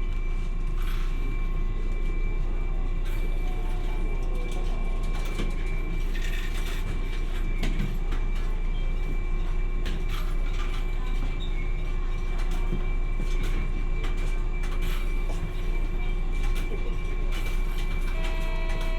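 Hiroden 700 series tram running, heard from inside the car: a steady rumble of wheels and running gear with a few constant hums and scattered light clicks.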